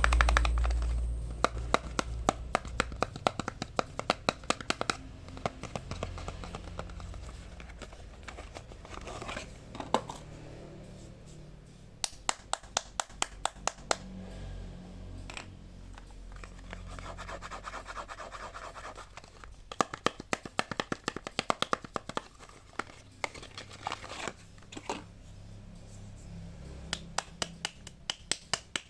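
Hands unwrapping and handling bars of soap close up: packaging crinkling and scratching, broken by several runs of quick, sharp taps.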